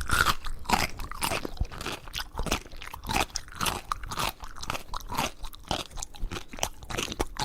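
An animal chewing something crunchy: a quick, uneven run of crunches, several a second.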